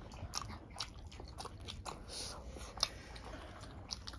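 People chewing and crunching food, with many short, wet clicks and smacks of the mouth.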